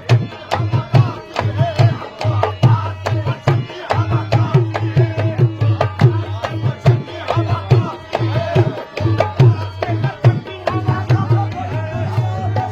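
Qawwali accompaniment without vocals: rapid, dense hand-drum strokes over sustained harmonium-like melodic tones.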